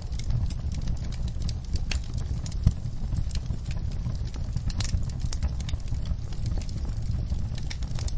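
Wood fire crackling: a dense run of small sharp pops and snaps over a steady low rumble, with one louder pop about two and a half seconds in.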